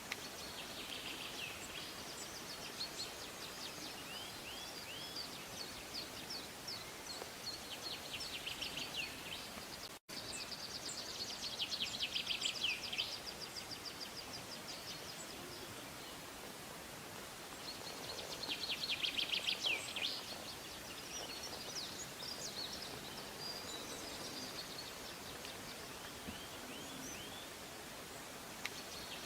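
Songbirds chirping and singing over a faint outdoor hiss, with two bursts of rapid trilling, about 12 and 19 seconds in.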